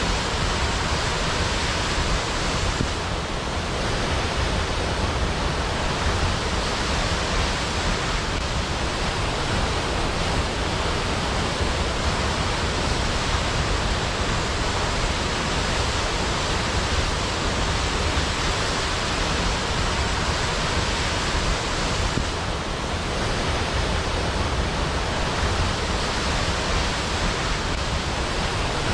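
Waterfall: a steady, even rush of falling water with no breaks, the level sagging slightly about three seconds in and again late on.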